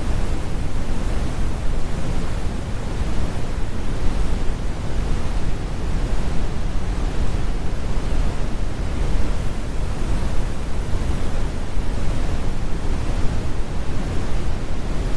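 Brown noise: a steady, deep rumble of even hiss without tones or events, strongest in the bass and thinning toward the treble.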